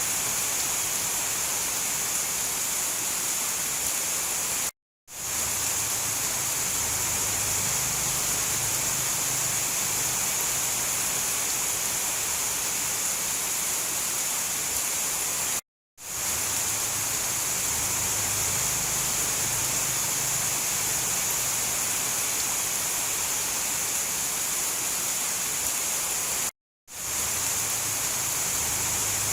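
Heavy rain falling in a steady, even hiss. It cuts out completely for a split second three times, about eleven seconds apart.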